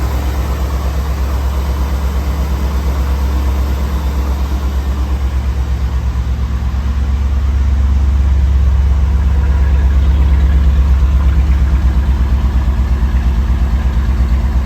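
A Skyliner car's engine idling steadily after a cold start, with an even pulsing exhaust note that grows a little louder about halfway through.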